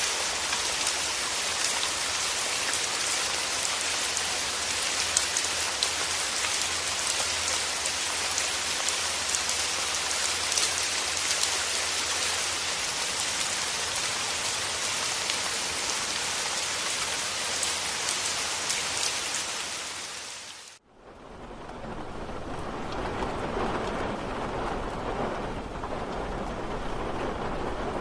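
Steady rain falling, a dense hiss with fine drop ticks. About 21 seconds in it fades out and a duller, lower rain sound with a steady low rumble fades back in.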